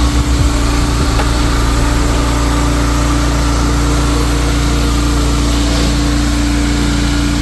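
Pressure washer running: a steady engine-and-pump hum under a loud hiss of spraying water, with a low throb in the first half second that settles into an even drone.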